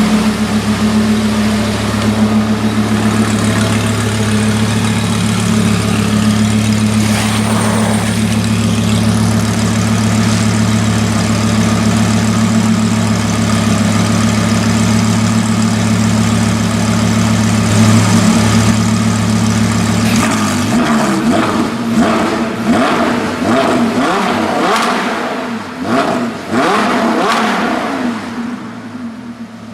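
Audi R8 V10 Plus V10 engine through a Larini exhaust, idling steadily, then blipped repeatedly about two-thirds of the way in, its revs rising and falling in quick succession before dropping back near the end.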